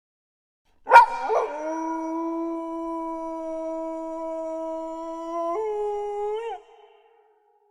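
A single wolf howl: a sharp, loud yelp-like start about a second in, then one long steady note that steps up in pitch near the end and falls away as it stops.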